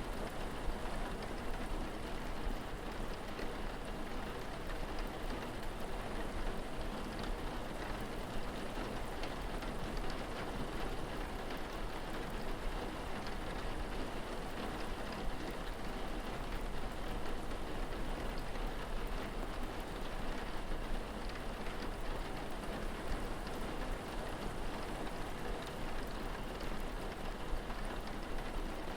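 Steady rain falling, a dense even patter of drops, with a constant low rumble underneath.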